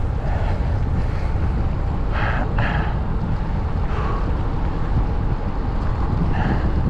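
Wind buffeting the microphone in a steady low rumble, with a few short brighter sounds about two, four and six and a half seconds in.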